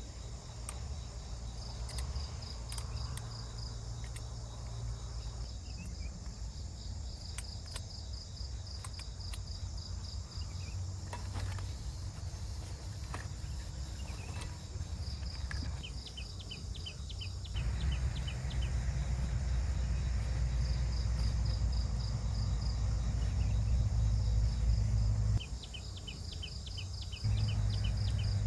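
Insects, cricket-like, chirping in repeated trains of rapid high pulses, with a steady low rumble underneath. The rumble gets louder about two-thirds of the way in and dips briefly near the end.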